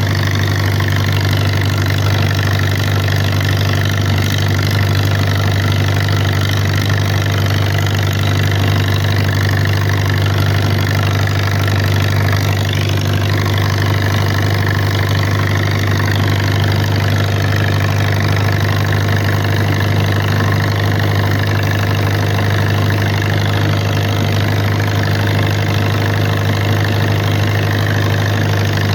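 Someca SOM 40 tractor engine running steadily at a constant speed, with no rise or fall in pitch. It is being worked uphill to burn off carbon deposits (a decoking run).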